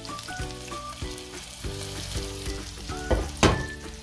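Lamb koftas sizzling as they fry in oil and their own melted fat in a pan, a steady crackling hiss, with a sharp knock about three and a half seconds in. Background music plays under it.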